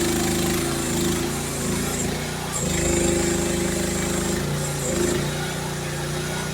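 Youtop YT15 mini excavator running while digging: the engine's steady drone dips and shifts in pitch several times as the hydraulics take load, with a high whine that comes and goes.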